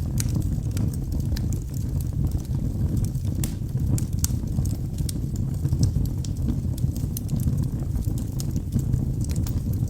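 Wood logs burning in a fireplace: a steady low rumble of flames with many sharp crackles and pops at irregular moments.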